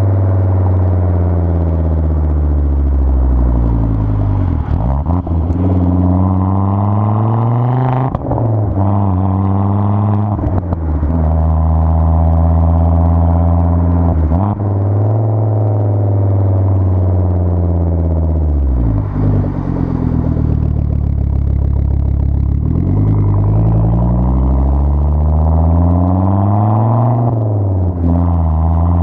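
Turbocharged 2.5-litre inline-five of a 2004 Volvo S60R, running through a custom 3-inch catless exhaust with resonators, pulling under load. The engine note climbs in pitch and then drops abruptly several times, as with gear changes, with a few longer stretches of falling pitch as it slows.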